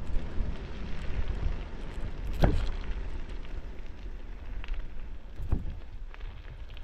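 Bicycle coasting downhill: a steady low rumble of wind and tyres with a crackling of tyres over a rough road surface, and two louder knocks about two and a half and five and a half seconds in. It eases off a little toward the end.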